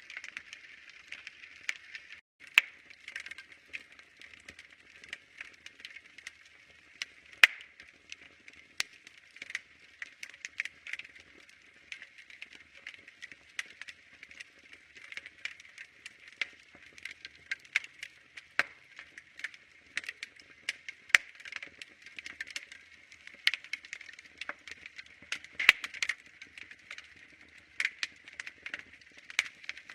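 Fire in a fireplace crackling: frequent irregular sharp pops and snaps over a steady soft hiss. The sound drops out for an instant about two seconds in.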